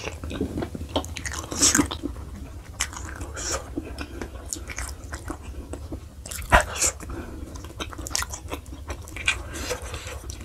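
A person chewing and biting cooked sheep's head meat close to the microphone: a run of short, irregular mouth clicks, with louder bites about one and a half seconds and six and a half seconds in.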